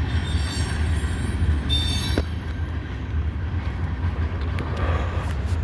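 Local switcher freight train rolling past, a steady low rumble of locomotive and cars with brief high squeals of wheels twice in the first two seconds and a few sharp clicks near the end.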